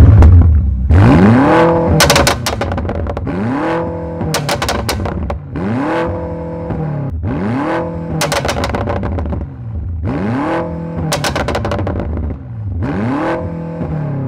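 A twin-turbo V8 sedan engine blipped hard about six times, roughly every two seconds, after a loud burst at the start. Each rev climbs and falls away, with exhaust crackles and pops on the lift-off.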